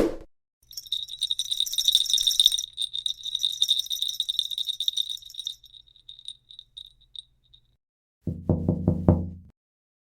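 Sleigh bells jingling, shaken steadily for a few seconds and then thinning out into a few scattered shakes. It opens with a short thump, and near the end comes a brief low sound pulsing about five times.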